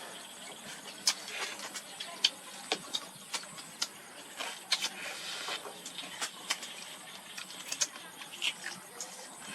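Eating sounds from fried crab: irregular sharp cracks and crunches as shell is bitten and chewed, several a second and uneven in loudness.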